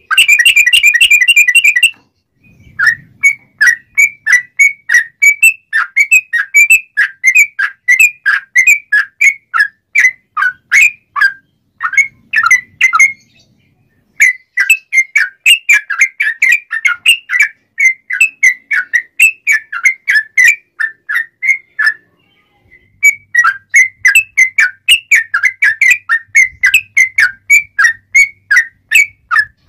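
Yellow-vented bulbul (trucukan) singing in a rapid, chattering run. It opens with a loud buzzy note of about two seconds, then gives a long string of quick, clear whistled notes at about four a second, pausing briefly twice.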